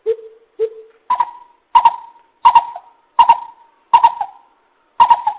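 Coucal (bìm bịp) decoy call: a series of eight deep hooting notes, about one every two-thirds of a second. The first two are lower, then the notes step up in pitch and grow louder. It is a lure call for drawing wild coucals in.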